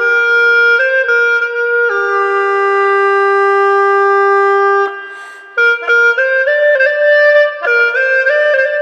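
Hulusi (Dai gourd free-reed flute) playing a slow, sweet melody: a few short notes, then one long held low note. It breaks off briefly for a breath just past the middle, then continues in smooth stepwise phrases.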